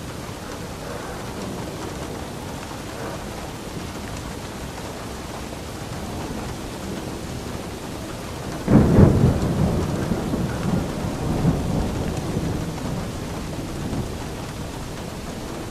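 Steady rain with a clap of thunder about halfway through: a sudden loud crack that rolls on as a low rumble for several seconds before fading back under the rain.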